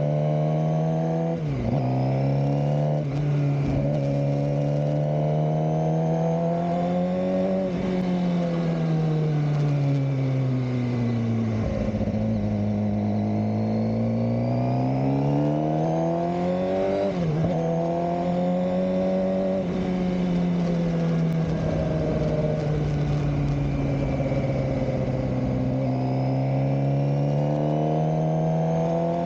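A Suzuki GSX-R600 K7's inline-four engine being ridden, its note rising over the first several seconds, falling away to a low point, then rising again and holding steady in the second half. There are brief sharp dips in pitch near the start and about two-thirds of the way through.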